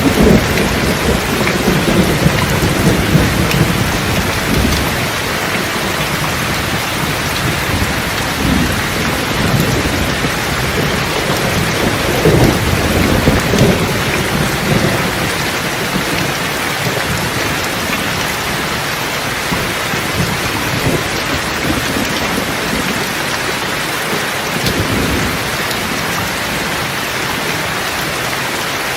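Steady rain with thunder rolling in low rumbles, loudest in the first few seconds and again about twelve seconds in.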